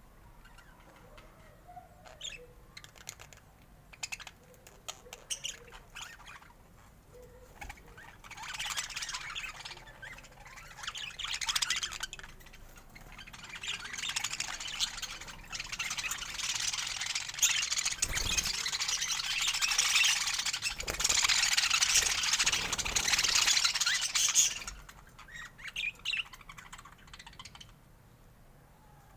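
Budgerigars chirping and squawking: scattered short chirps at first, then a dense run of chattering from about eight seconds in that drops back to a few chirps near the end.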